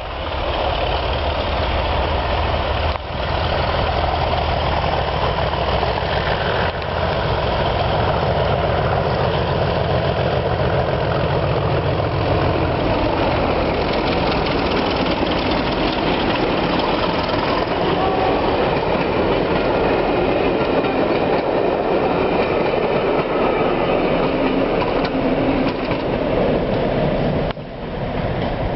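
Class 37 and Class 33 diesel locomotives working hard together up a steep bank, a loud deep engine throb for about the first half, then giving way to the steady rush and rattle of the train running past on the rails.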